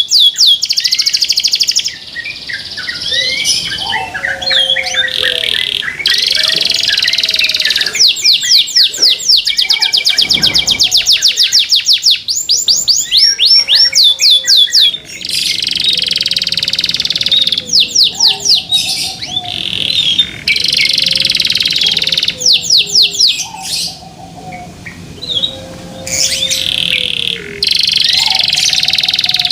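Domestic canary singing loudly: long fast trills of rapidly repeated high notes, broken by short pauses, with lower whistled notes between the trills.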